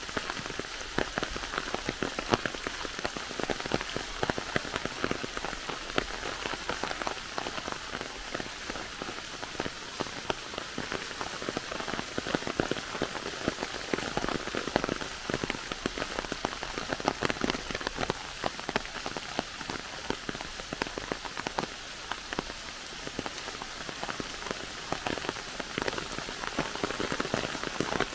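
Steady rain falling on foliage and leaf litter, heard as a dense stream of small drop hits.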